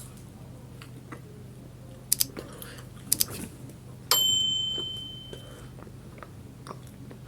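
Quiet chewing of food with a few soft clicks, and about four seconds in a single high ringing ding that fades away over about a second and a half, over a steady low hum.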